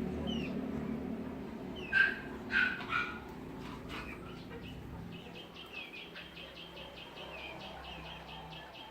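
Animal calls: three loud, sharp calls in quick succession about two seconds in. Short high chirps come and go, then a fast, even run of high chirps from about halfway, over a low steady hum.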